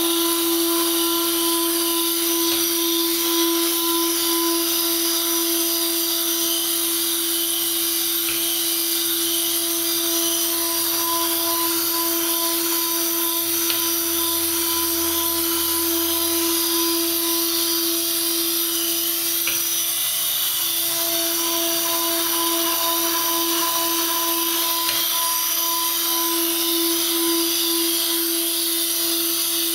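Moore #3 jig grinder running under power: its high-speed grinding head gives a steady whine over a high, even hiss.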